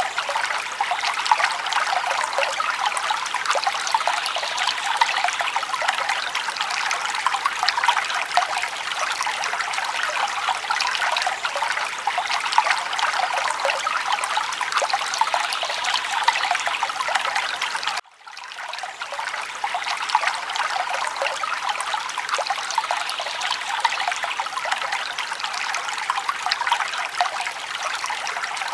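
Forest stream running steadily, water trickling and babbling over rocks. The sound cuts out for an instant about two-thirds of the way through and fades back in.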